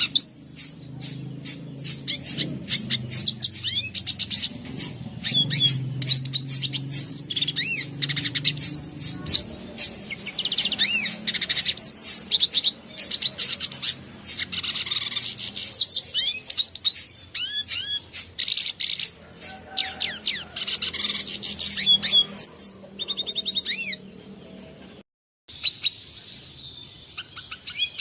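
Red siskin singing: a fast, continuous twittering of high chirps and short rising and falling whistles, broken by a brief silent gap near the end.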